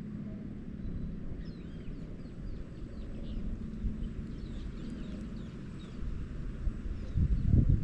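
Birds chirping, a quick series of short, high calls, over a steady low rumble. Near the end come a few low knocks.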